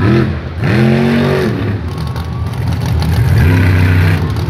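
Monster truck engine revving: the engine rises and falls in pitch about a second in, then pulls loud and steady over the second half.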